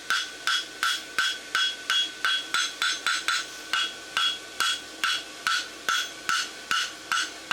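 Hand hammer striking hot steel bar stock on an anvil in a steady rhythm, about two to three blows a second. Each blow leaves a short metallic ring, as the branch of a bar horseshoe is drawn out.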